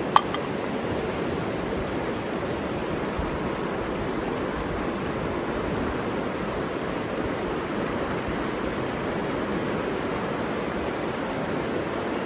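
A river flowing steadily. Just after the start there is a sharp click, then a smaller one.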